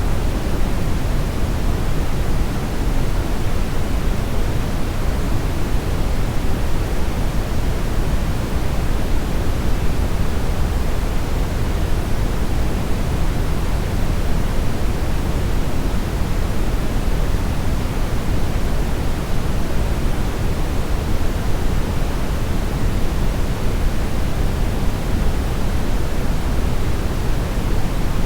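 Steady brownish noise: a continuous, even hiss weighted toward the low end, deep and rumbling with little treble, unchanging throughout.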